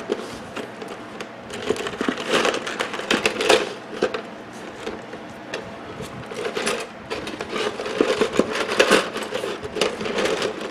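Small pieces of scrap copper salvaged from microwave parts being handled, clinking and rattling together in two spells of clatter, one a couple of seconds in and another past the middle.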